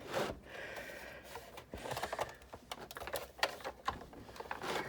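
Sizzix Big Shot manual die-cutting machine being hand-cranked with a die and cutting-plate sandwich forced between rollers set a little too tight: a string of irregular clicks and creaks.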